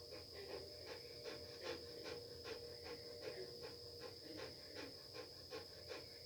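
Faint industrial machinery noise from a distance: a steady high-pitched ringing tone with a lower steady hum beneath it, like machinery running at high idle. A soft rhythmic pulse about three times a second runs through it.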